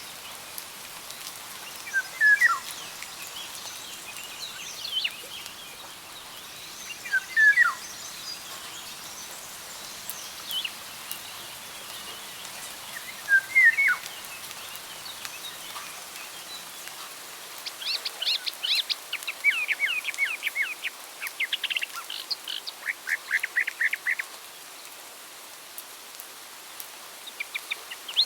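Wild birds singing over a steady background hiss: a short two-note call repeats every five or six seconds, and from about two-thirds of the way in another bird sings fast trills of rapid repeated notes.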